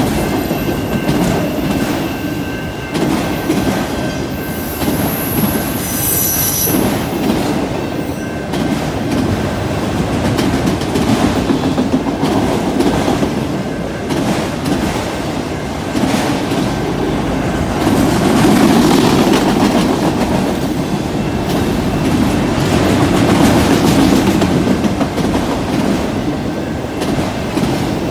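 Freight train of autorack cars passing close by: a steady rumble and clatter of steel wheels over the rails, with a brief high-pitched wheel squeal about five to seven seconds in.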